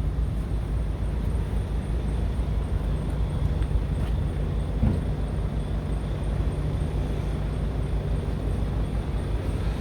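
Scania R tractor unit's diesel engine running steadily, a constant low hum with no revving.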